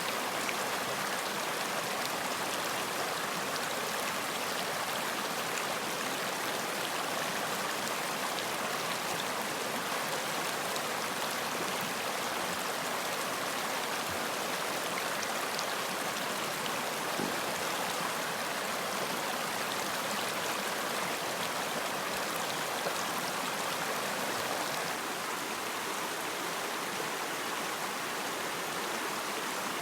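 Running water: a steady rush with faint scattered splashes, dipping slightly in level about 25 seconds in.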